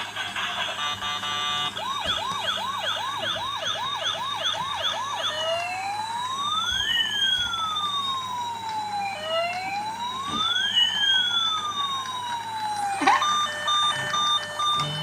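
Toy police car's electronic siren cycling through its patterns: a fast yelp of about three sweeps a second, then a slow rising-and-falling wail, then a steady beeping tone for the last two seconds.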